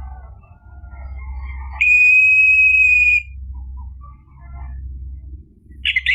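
Orange-headed thrush (anis merah) singing: soft warbled notes, then about two seconds in one loud, steady, long whistle lasting over a second, followed by quieter scattered notes and a short harsh call near the end. A low steady hum lies underneath.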